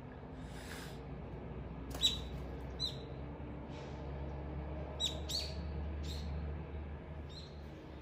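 Wild birds giving short, sharp calls, about half a dozen, each dropping quickly in pitch, the loudest about two seconds in.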